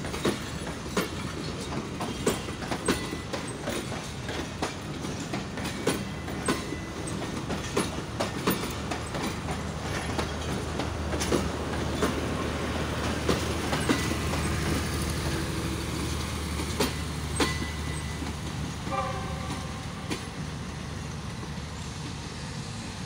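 Passenger coaches of a departing express rolling past on jointed track, their wheels clacking over the rail joints in a long run of sharp clicks over a steady rumble. A low steady hum joins in the middle, and a short train horn sounds near the end.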